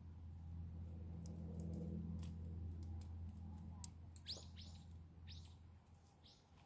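A bird calling with four or five short, high, downward-sweeping calls in the second half, over a steady low hum that fades out near the end.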